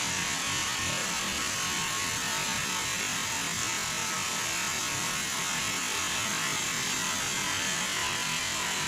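Jet airliner's engines heard at a distance: a steady high whine and rush, growing slightly louder near the end.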